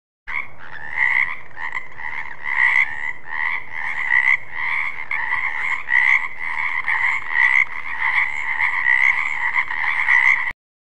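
Frogs croaking in a steady series of repeated calls, about two a second. The sound starts and cuts off abruptly.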